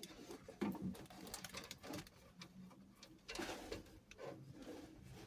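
Faint, irregular small clicks and rustling of hands working a compression nut and olive onto a copper fuel pipe fitting, with a low hum underneath.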